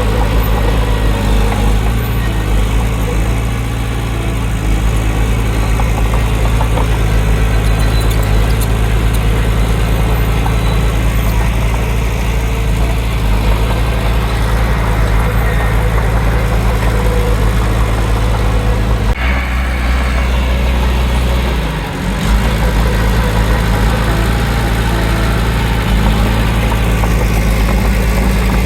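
Heavy earthmoving diesel engine running steadily. Its low engine note shifts for a few seconds about two-thirds of the way through, then settles back.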